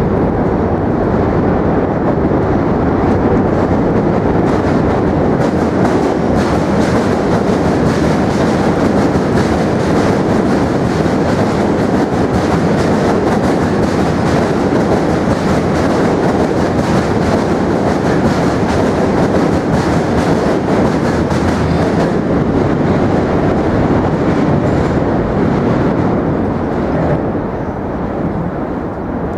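New York City subway train crossing the Manhattan Bridge: a loud steady rumble of the cars on the bridge tracks, with a dense rattle of wheel clatter through the middle that eases off near the end.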